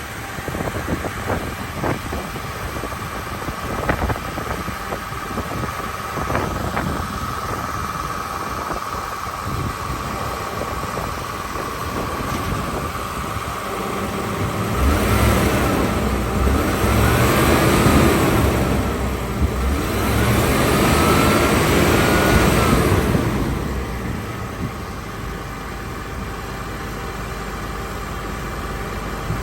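A motor vehicle engine running steadily, growing louder about halfway through with two rises and falls in pitch before settling back.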